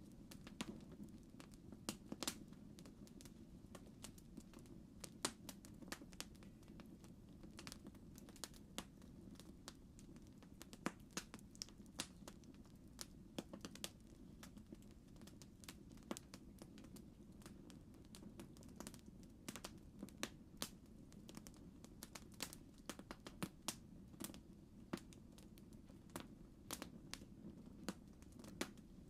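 Campfire crackling: irregular sharp pops and snaps, several a second at times, over a low steady background of burning.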